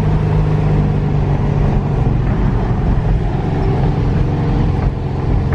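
Car driving along at a steady pace: a steady low engine hum with road noise, heard from inside the cabin.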